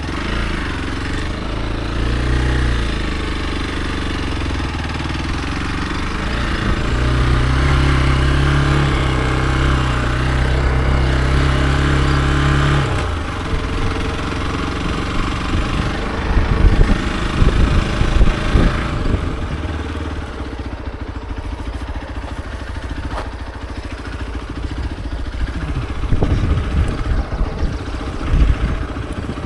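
Hero XPulse 200 4V's single-cylinder engine running under way. It holds a steady note, steps up to a higher pitch about seven seconds in and holds it, then the throttle closes sharply around thirteen seconds. It runs on at lower revs among irregular low thumps.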